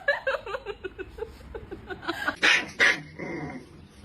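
An animal vocalizing: a quick run of short pitched calls, then two louder, harsher sounds about two and a half and three seconds in.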